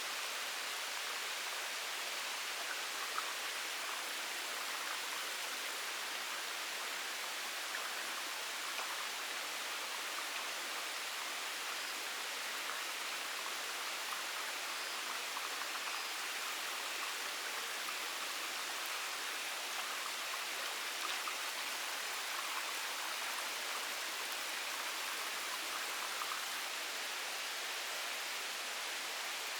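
Steady, even hiss of water, with faint scattered ticks through it.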